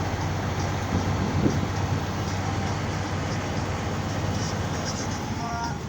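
A truck's engine running steadily with a low hum under an even rushing noise.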